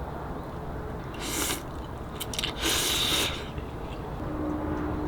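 A person eating: two short noisy bites with a few small clicks between them, over a steady low background rumble.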